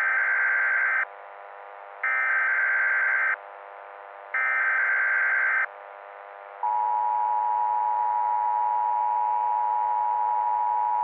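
Emergency Alert System signal: three short screeching data bursts of the SAME header, each about a second long and a second apart. About six and a half seconds in, the long steady attention tone begins.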